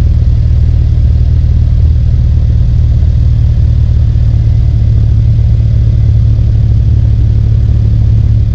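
2018 Mercedes CLA 250's turbocharged 2.0-litre four-cylinder engine idling steadily just after a cold start at about −12 °C.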